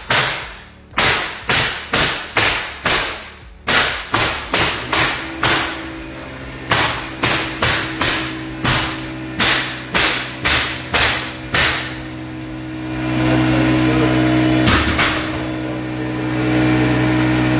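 Pneumatic framing nailer firing nail after nail into OSB subfloor, sharp cracks in quick runs of several shots about two to three a second. About twelve seconds in, an air compressor kicks on and runs with a steady hum, a single knock sounding over it a little later.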